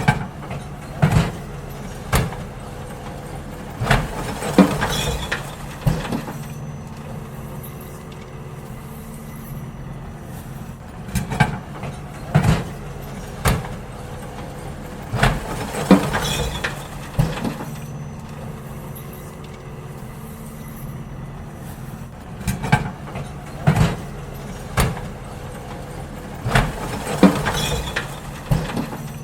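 Garbage truck engine running steadily while it empties bins, with groups of loud bangs and clunks every second or two as the bins are tipped and knocked against the hopper, and short pauses between the groups.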